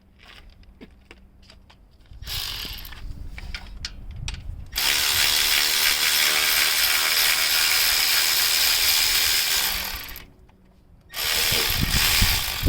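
Power tool driving a socket to loosen engine mount bolts. A shorter burst about two seconds in, then a long steady run of about five seconds, and another run starting near the end.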